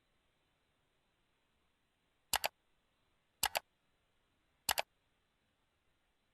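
Three sharp double clicks, each a quick pair of clicks, about a second apart over a faint hiss.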